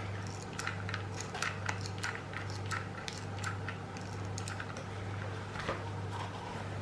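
Light, irregular clicks and taps from hands working small craft materials and a glue gun, about a dozen over a few seconds, over a steady low electrical hum.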